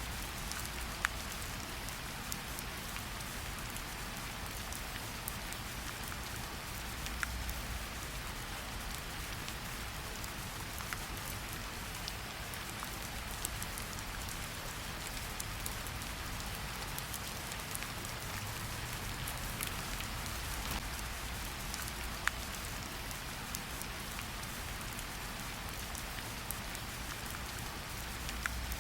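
Steady rain falling in a forest, a constant hiss with scattered individual drops pattering close by.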